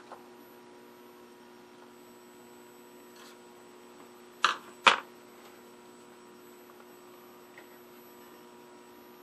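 Steady electrical hum from a powered-up Philco Predicta Princess vacuum-tube TV chassis, with two sharp clicks about half a second apart midway through.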